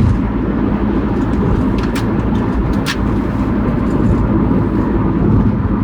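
Steady road and engine rumble heard inside a moving car's cabin, with two brief clicks about two and three seconds in.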